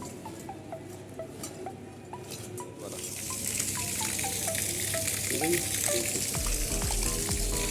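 Water from a running submersible pump gushing and splashing out of its outlet pipe, a steady hiss that swells in about three seconds in. A low hum joins near the end.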